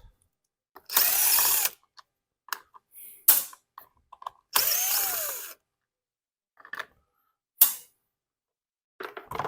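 A power driver with a Torx bit running in two bursts of about a second each, backing out the cover screws. Small clicks and knocks come between the bursts.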